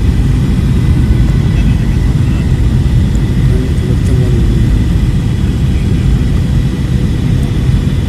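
Airliner landing: a loud, steady low rumble with a faint steady whine above it.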